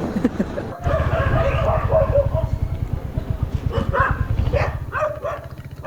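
Several dogs barking and yelping at each other in a territorial squabble, over the steady low pulsing of a two-wheeler's engine that comes in about a second in.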